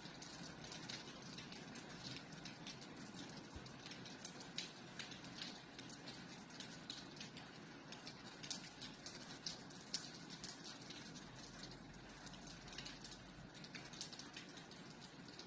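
Gentle rain: a steady soft hiss with many irregular drops ticking and pattering on a hard surface.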